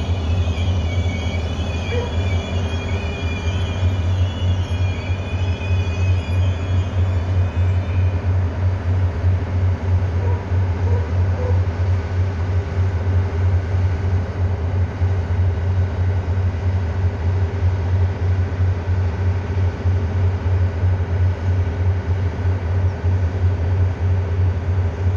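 A diesel train's engine running with a steady low rumble. Thin, wavering high-pitched squeals sound over the first eight seconds or so, then fade out.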